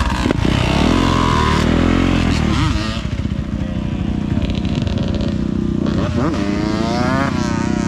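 Dirt bike engine running and revving, its pitch rising and falling as the throttle is worked. The engine eases off about three seconds in, then climbs and drops again near the end.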